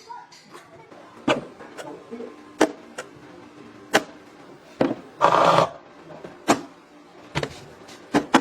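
A series of sharp knocks, about seven of them, spaced irregularly roughly a second apart, with a short, loud hissing burst lasting about half a second just after the middle.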